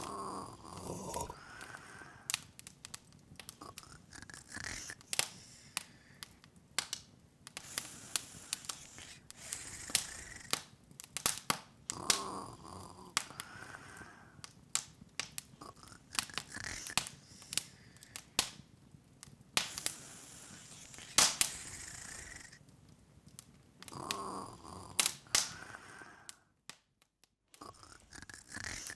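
Open log fire crackling, with irregular sharp pops and snaps. A soft rising breathy sound comes every few seconds. The sound cuts out completely for about a second near the end.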